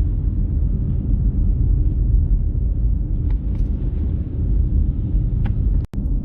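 Steady low rumble of a car driving on a slushy road, heard inside the cabin: tyre and engine noise. A couple of faint ticks sound in the middle, and the sound cuts out for an instant near the end.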